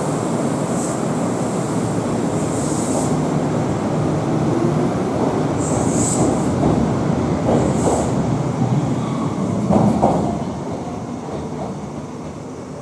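Kintetsu 'Blue Symphony' sightseeing limited express train pulling out of the station, its cars running past close by with a few brief high squeals. The sound fades after about ten seconds as the last car moves away.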